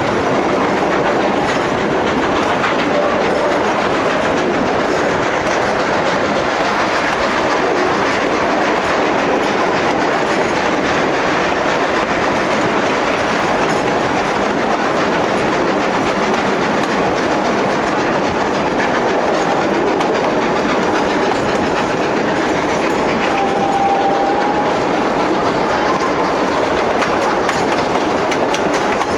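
Durango & Silverton narrow gauge train running along the track: a steady rumble and rattle of the cars with wheels clicking over the rail joints. Late on, a brief faint wheel squeal.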